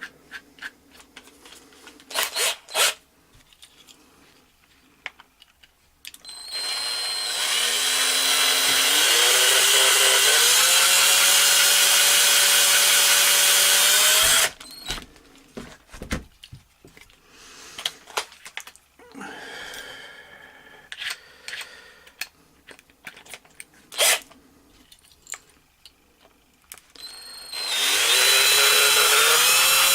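Small electric drill with a 1.5 mm bit drilling apart a die-cast Matchbox truck: it spins up with a rising whine about six seconds in, runs for about eight seconds and stops. After a stretch of small clicks and handling noises it starts up again near the end, rising in pitch.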